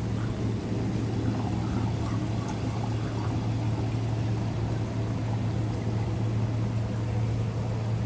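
A steady low engine drone holding one pitch under a noisy wash, with no break or change.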